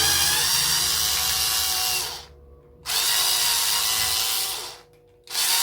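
Small electric power tool running in three bursts of about two seconds each, stopping briefly between them.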